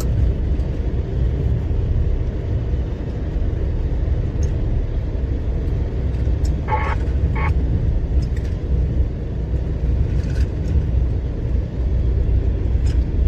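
Truck's engine and road noise heard inside the cab while driving: a steady low drone. Two brief high tones sound about seven seconds in.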